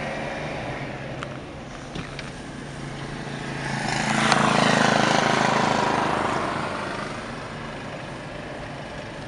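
Vehicle noise in traffic: a steady engine and road hum, with a loud swell of engine and tyre noise about four seconds in that fades away over the next three seconds.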